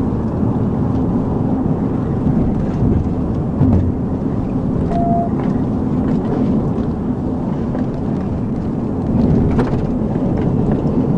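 Police patrol car driving: a steady low rumble of engine and road noise heard from inside the car, with one short beep about five seconds in.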